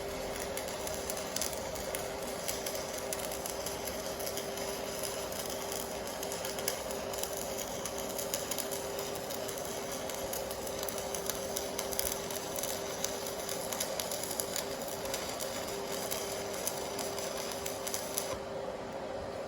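Electric welding arc from a Stahlwerk AC/DC TIG 200 welder crackling steadily over a steady hum. The crackle cuts off near the end as the arc is broken.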